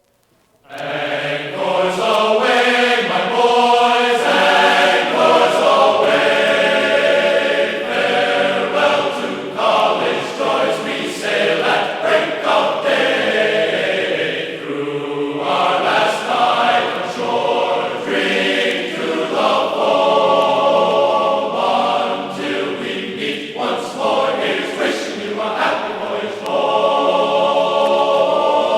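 A choir singing, with long held chords and shifting notes.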